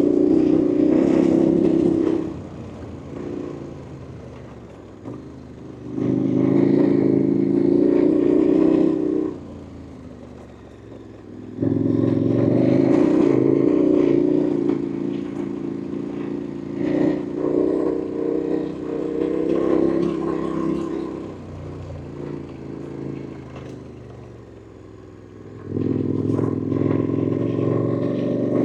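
KTM 1290 Super Adventure R's V-twin engine running under the rider's throttle, pulling loud in spells of two to three seconds and dropping back between them, picking up again near the end.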